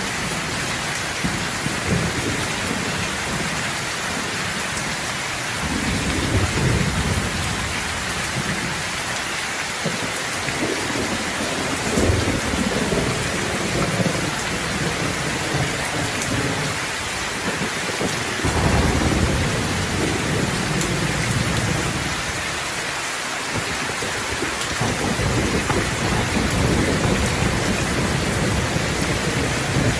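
Steady heavy rain hissing throughout, with distant thunder rolling in deep rumbles that swell and fade several times.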